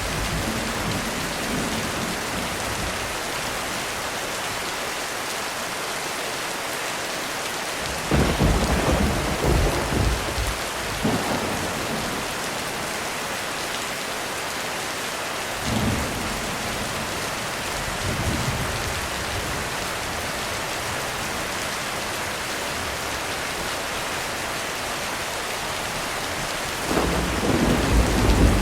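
Steady heavy rain hissing throughout, with rolls of thunder: a loud rumble about a third of the way in that dies away over a few seconds, two fainter rumbles in the middle, and another rumble building near the end.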